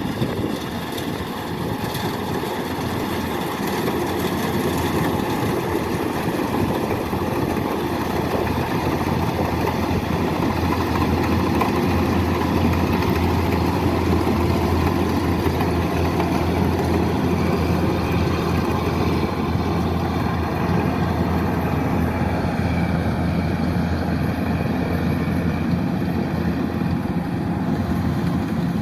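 Kubota DC-108X rice combine harvester's diesel engine running steadily, with a deep, even hum and no breaks.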